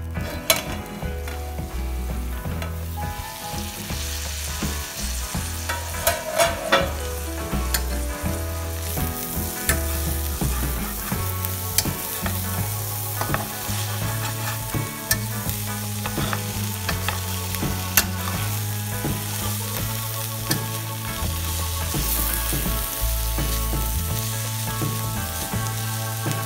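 Dried omena sardines stir-frying with onions in a hot oiled pan, sizzling steadily while a spatula stirs and scrapes, with occasional sharp clicks of the spatula against the pan.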